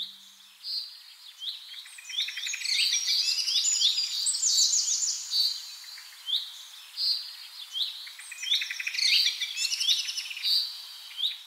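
Songbirds chirping and trilling, several high calls overlapping in quick repeated phrases, busiest in the middle. The sound stops suddenly at the end.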